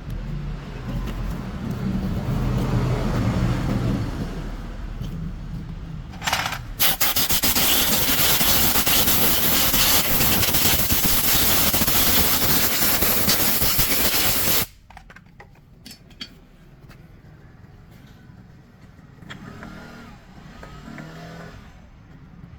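A loud, steady hiss starts after a short burst about six seconds in, runs for about eight seconds and cuts off suddenly. Before it there is a lower rumbling noise, and after it a few faint knocks.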